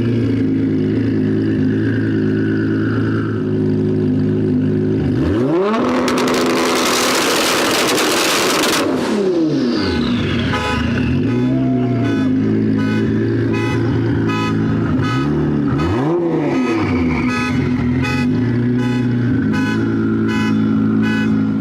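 Sports car engine running through a loud aftermarket exhaust, holding a steady drone and revved up and back down a few times. About six seconds in, a loud rushing hiss lasts some three seconds.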